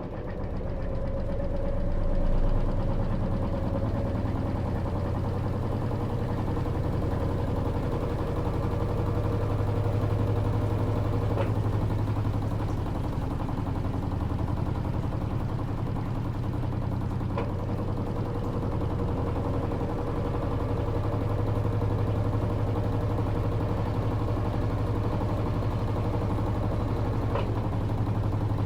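Electrolux LT13B top-load washing machine running with a steady low mechanical hum, with three brief clicks spread through it.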